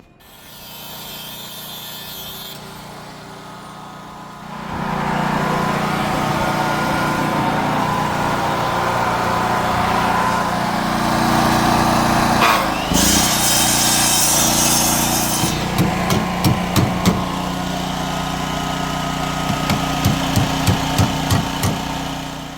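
A machine running steadily and growing louder about five seconds in, with a loud high hiss for a couple of seconds in the middle and quick runs of sharp knocks near the end.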